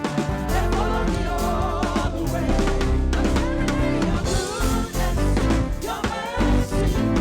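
Live gospel praise music: a band with drum kit and bass playing, with singing over it.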